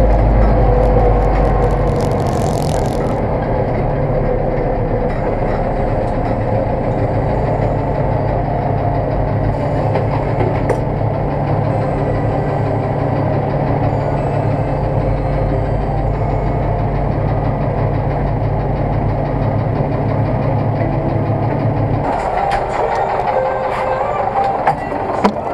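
Zetor tractor's diesel engine running steadily under way, with its tone changing about 22 seconds in, and a few sharp knocks near the end.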